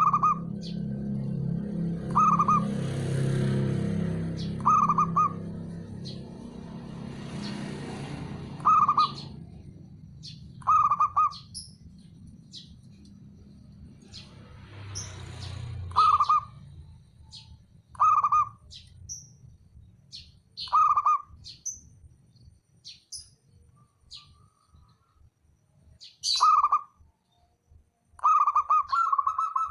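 Zebra dove (perkutut) calling: short, loud notes repeated every two to three seconds, the last one drawn out longer, with thin high chirps between them. A low rumble with a few hissing swells lies underneath for the first third.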